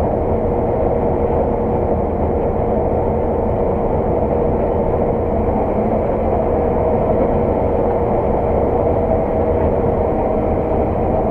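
Claas 600 TT combine harvester running under load while combining oilseed rape, heard from inside the cab: a steady engine and machinery drone with a constant whine.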